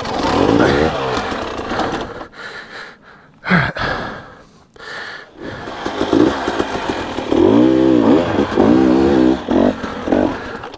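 Dirt bike engine revving hard in repeated surges, its pitch rising and falling, with short lulls in between, as the bike fights for grip climbing a slick mud hill.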